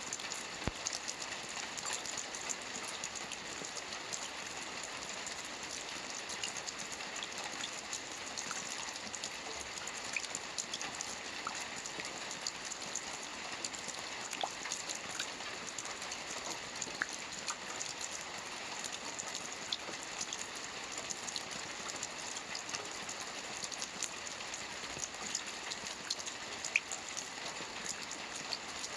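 Steady rain falling on a lake's surface: an even hiss dotted with many small, separate drop ticks.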